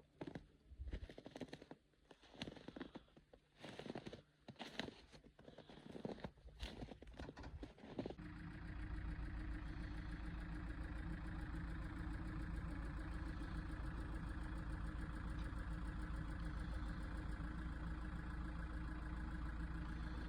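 Irregular crunching and rustling. About eight seconds in, a vehicle engine comes in suddenly and runs steadily at an even idle-like pace.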